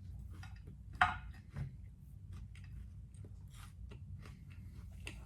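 Person chewing a crispy, dry wafer protein bar: a run of small crunches, with one louder crunch about a second in.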